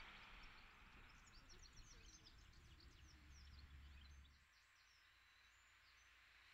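Faint birdsong: a run of quick, high, short chirps over a quiet outdoor background, with a low rumble that drops away about four seconds in.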